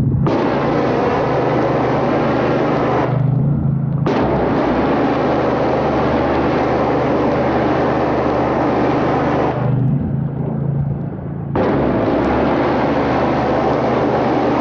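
Gas-engine pressure washer running steadily while its wand sprays water in three long bursts, the spray stopping briefly about three seconds in and again for a couple of seconds about ten seconds in.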